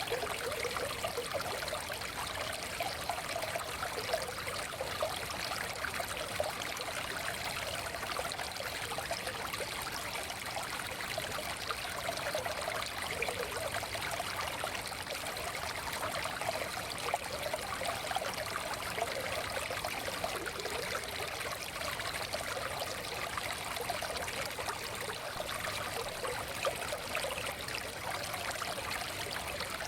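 Small stream flowing steadily, a continuous babble and trickle of water over stones.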